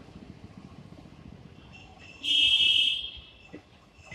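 Passenger train coaches rolling away along the platform track with a faint low rumble. About two seconds in, a loud shrill screech lasts just under a second, followed by a couple of faint clicks.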